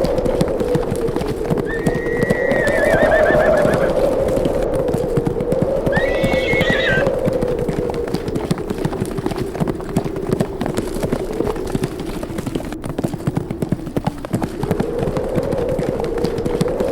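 Horses galloping, a dense rapid clatter of hooves, with two whinnies about two and six seconds in. Under it, wind howls in a tone that rises and falls.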